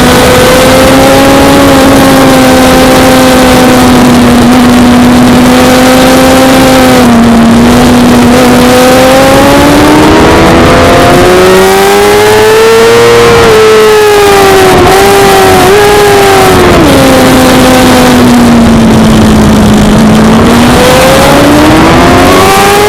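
Suzuki GSX-R600 inline-four engine running loud at a steady high pitch for about ten seconds, then rising, wavering and dropping in pitch as the throttle changes, and climbing again near the end.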